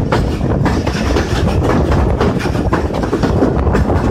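Passenger train coach running at speed: a steady rumble of wheels on the rails with a rapid, uneven clatter over the track.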